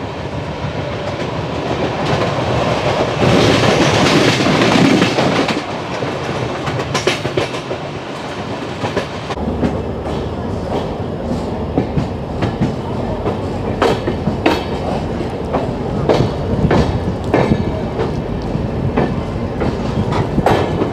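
Varanasi–Mysore Express passenger train running, with a steady rumble and wheels clattering over rail joints. A louder rushing stretch comes about three seconds in, and irregular sharp clicks follow through the rest.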